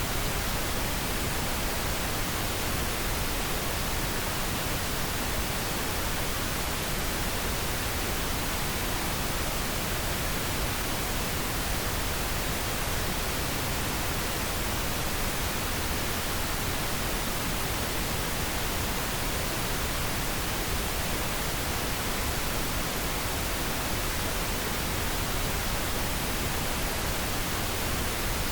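Steady pink noise: an even, unchanging hiss spread across all pitches, deeper and softer-topped than white noise.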